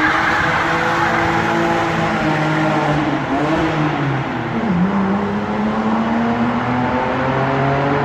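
Car engine running hard under load. Its pitch holds, sags, dips sharply about five seconds in, then climbs slowly again, as in a gear change followed by accelerating.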